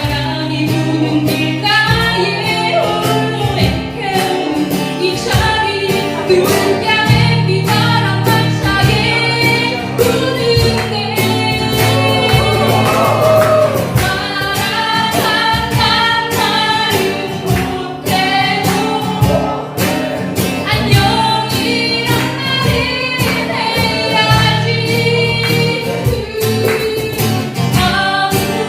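A group singing together to acoustic guitar strumming.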